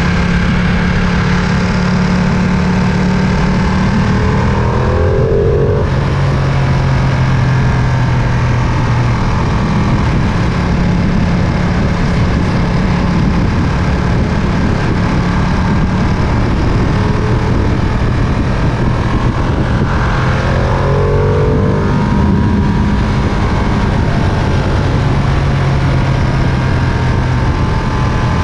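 Ducati Panigale V2's twin-cylinder engine running at steady riding revs under a haze of wind and road noise. The engine note briefly dips and changes pitch twice, about five seconds in and again about twenty-one seconds in, as with a throttle lift or gear change.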